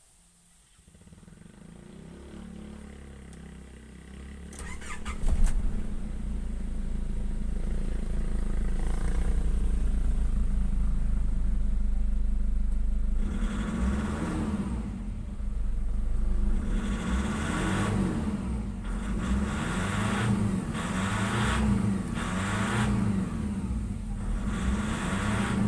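Nissan Patrol's ZD30 3.0-litre four-cylinder turbo-diesel being started: it turns over for a few seconds before it fires about five seconds in, then runs steadily. From about halfway the throttle is blipped repeatedly, the engine rising and falling in pitch each time. The engine is one with the hard starting and low power described for this vehicle.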